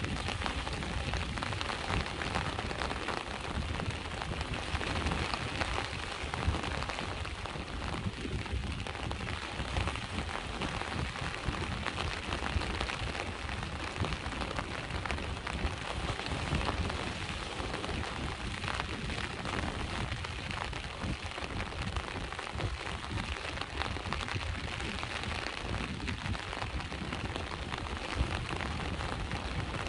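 Steady rain falling on a surface, with a dense run of small drop ticks over a low, even rumble of sea waves on the shore.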